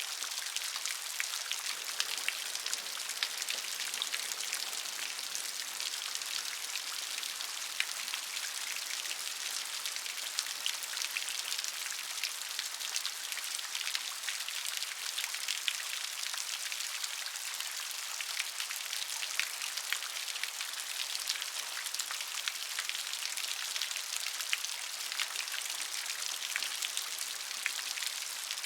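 Steady gentle rain falling, an even hiss thick with many small individual drop patters.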